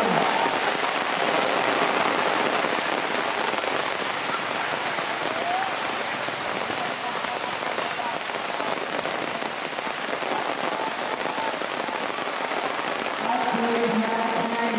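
Heavy rain pouring steadily onto a river's surface, a dense even hiss.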